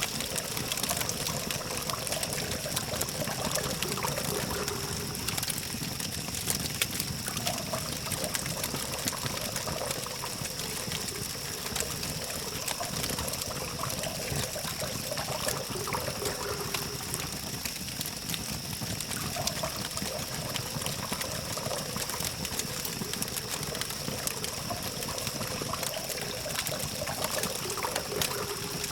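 Wood campfire crackling and popping steadily, with many small sharp snaps, over the low hum of distant city traffic and a steady high-pitched tone.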